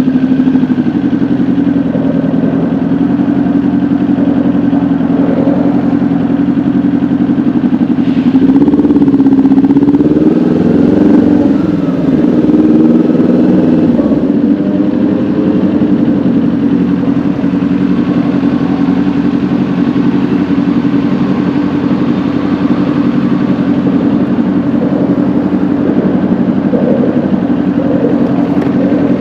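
Kawasaki Ninja 400's parallel-twin engine running under way at steady revs. Around the middle the revs rise and dip a few times with throttle changes before settling back to a steady note.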